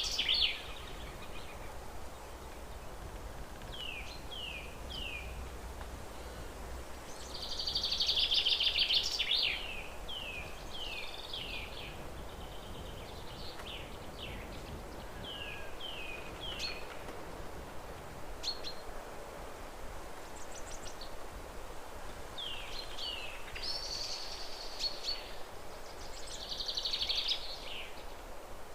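Songbirds singing: loud buzzy trilled phrases a second or two long, several times, between runs of short, quick, falling whistled notes, over a steady background hiss.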